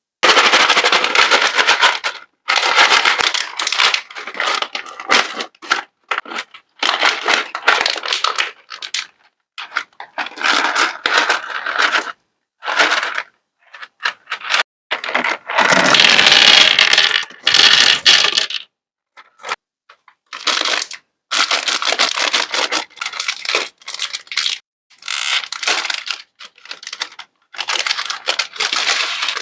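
Sweets and their plastic wrappers and packets being handled and tipped into a platter: close, crinkly crackling in bursts, cut by sudden silent gaps, with the fullest burst a little past the middle.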